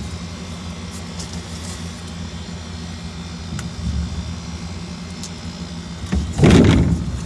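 Goodman GSX central air-conditioner condenser with a rotary compressor running with a steady low hum. About six seconds in, a brief loud rushing noise rises over the hum.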